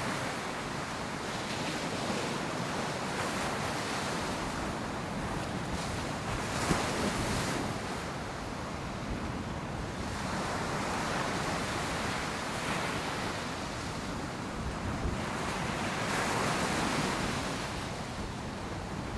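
Ocean surf breaking on a beach, the wash swelling and easing every few seconds, with some wind on the microphone.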